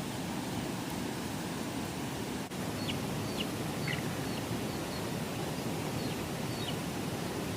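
Steady rain hiss, with a small bird chirping a string of short, high calls from about three seconds in.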